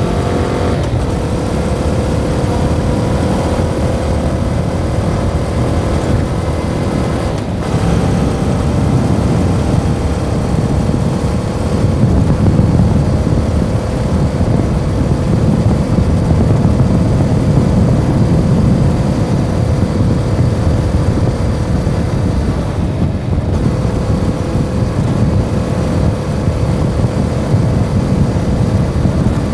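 Yamaha MT-07's parallel-twin engine running through its stock exhaust while riding at a fairly steady pace, its note drifting slowly in pitch. The note breaks briefly three times: about a second in, at about seven and a half seconds and at about twenty-three seconds.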